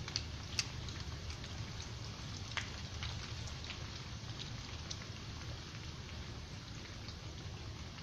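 Rain falling, a steady patter with scattered single drops ticking sharply, a few of them louder in the first second and about two and a half seconds in.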